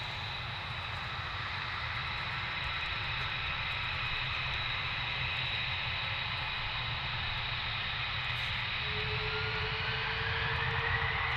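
Aircraft engines running with a steady high-pitched whine over a low rumble, slowly growing louder. Near the end a further tone rises in pitch.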